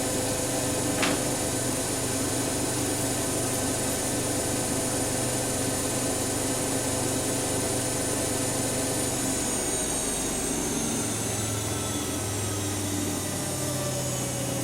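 Siemens Siwamat iQ 716 washing machine running with a steady motor whine and drum rumble, like a fast spin; about two-thirds of the way through the whine starts to fall slowly in pitch as the drum slows. A single short click about a second in.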